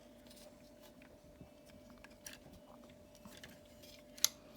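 Faint handling of a plastic transforming-robot toy: small scattered clicks and rubs as parts are folded out, with one sharp click near the end.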